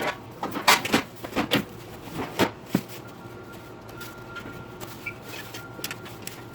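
A quick run of knocks and clatters from grill parts being handled and fitted during assembly, with the footage sped up. The knocks bunch together in the first few seconds, then only a few faint clicks follow.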